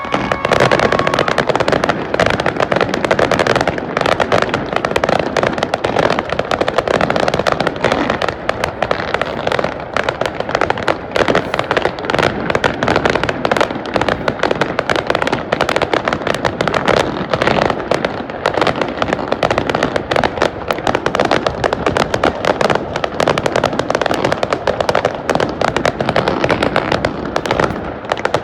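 Fireworks going off in a dense, continuous barrage of rapid cracks and bangs that never lets up.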